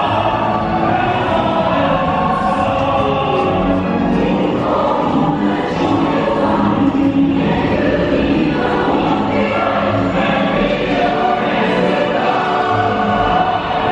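Choral music: a choir singing over an orchestra, with held, swelling notes.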